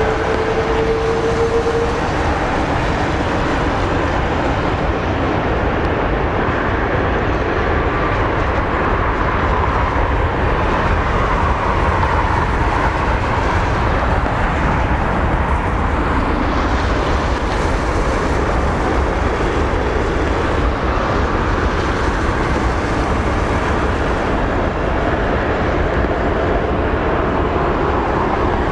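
Jet airliner engines running at high power during a departure, a loud steady noise with a faint whine that rises around ten seconds in.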